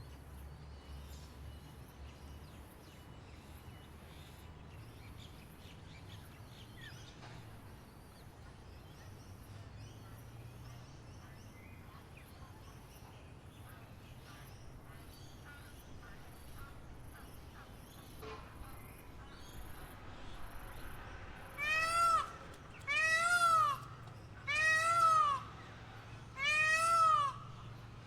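Faint outdoor background, then near the end four loud mewing animal calls, each under a second long and rising then falling in pitch, about a second and a half apart.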